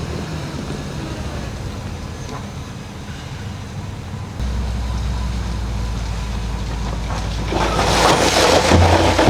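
Heavy bulldozer diesel engine running steadily. It grows louder about four seconds in, and a loud grinding, scraping noise builds near the end.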